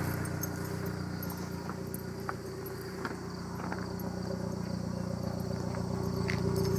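2014 Chevy Sonic LT Turbo's 1.4-litre turbocharged four-cylinder idling steadily, heard through a ZZP stainless-steel cat-back exhaust, with a few faint scattered ticks.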